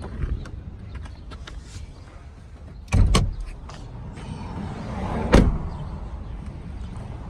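Jeep Grand Cherokee Trackhawk running with a steady low rumble. Two sudden loud thumps come about three seconds and five and a half seconds in, the second after a short rising surge.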